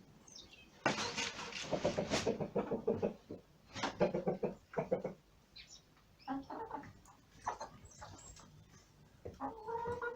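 Domestic hens clucking and calling while they feed, a run of loud clucks about a second in, another burst around four seconds, then softer scattered calls.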